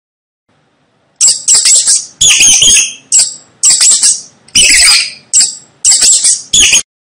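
A mouse squeaking: a quick run of about nine shrill squeaks, starting about a second in.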